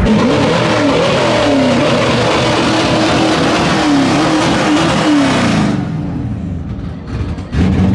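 A truck engine revving up and down several times under a loud hiss. The sound drops off suddenly about six seconds in and comes back loud just before the end.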